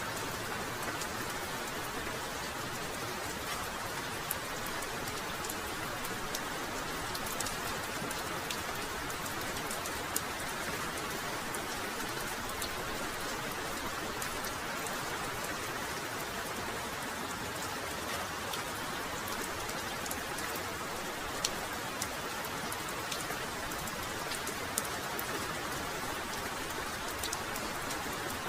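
Heavy rain falling steadily, a dense even hiss with sharp taps of individual drops scattered through it.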